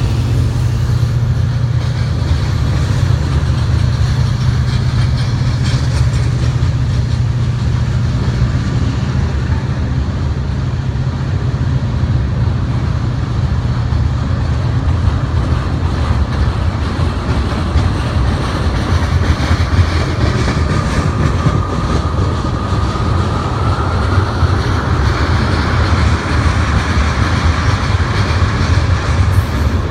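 Heavy freight train's diesel locomotives working hard under a heavy load, with a deep, steady rumble and wheels clacking along the rail. The engines are labouring to pull about 14,000 tons with one unit dead. A higher whine rises and grows louder from about two-thirds of the way through.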